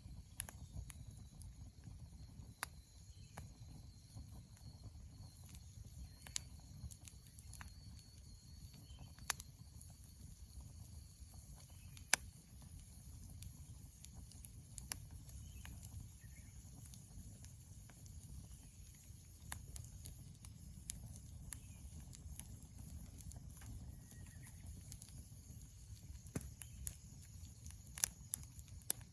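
Wood fire burning in a fire pit, crackling with scattered sharp pops over a low steady rumble.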